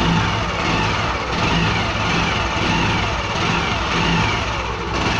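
Yamaha Fascino scooter's single-cylinder engine running in stock form, its level swelling and easing about every three-quarters of a second.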